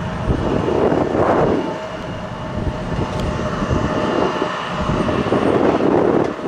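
Embraer 175 jet engines running, a steady whine over a rushing noise that swells and fades, with wind buffeting the microphone.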